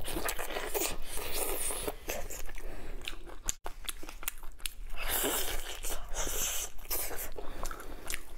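Close-up mouth sounds of biting and chewing braised meat on the bone, a dense run of small crackly clicks. There is a brief break in the sound about three and a half seconds in.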